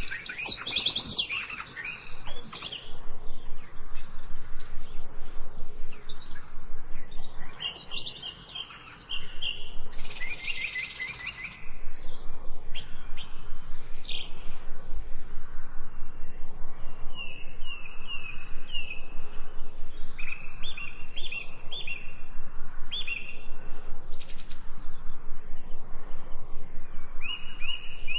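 Several songbirds singing and chirping, their short calls overlapping. In the second half one bird repeats runs of quick notes on much the same pitch.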